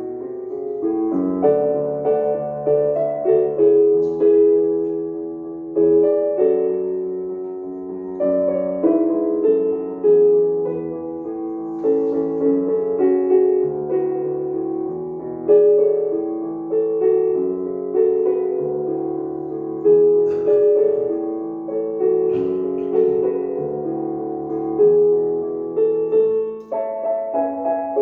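Piano playing a melodic piece, with a steady flow of struck notes that ring and fade, and chords underneath.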